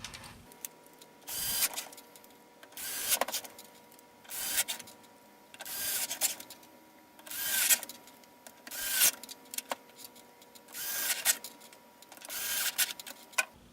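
Screws being driven back into the plastic base of a water ionizer with a screwdriver: a short scraping burst with each turn, repeating about every one and a half seconds.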